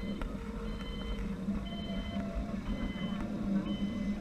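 A high electronic warning beep repeating about once a second, each beep about half a second long, over the steady hum of a running engine.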